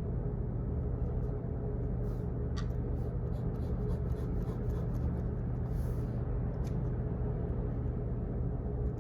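Steady low hum of office background noise, with a few seconds of faint clicks and scratching near the middle from writing at a desk.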